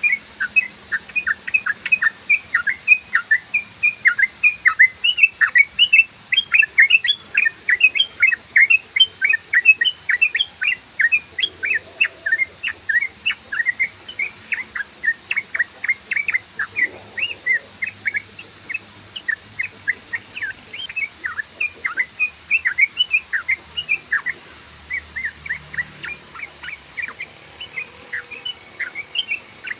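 Yellow-vented bulbul (trucukan) singing a rapid, unbroken run of short sweeping notes, about four a second. This is the long "ropel" song played as a lure call for the species.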